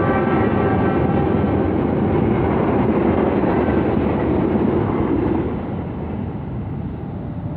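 A train running past on the rails, a loud steady rumble of wheels and cars that drops off about five seconds in as it moves away.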